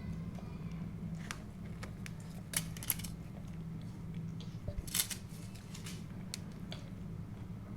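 Close-miked eating sounds: a few short, sharp crackles and clicks over a steady low hum.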